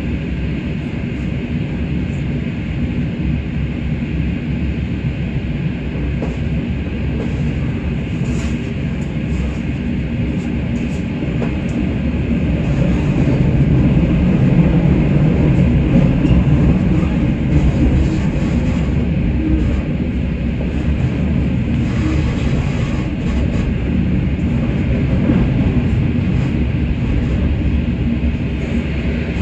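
Suburban electric train running on the line: a steady, loud low rumble with a few faint clicks, swelling louder about halfway through.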